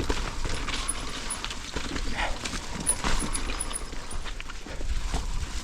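Mountain bike rolling over a rough, wet trail: tyre noise with a low rumble and a run of irregular knocks and rattles from the bike.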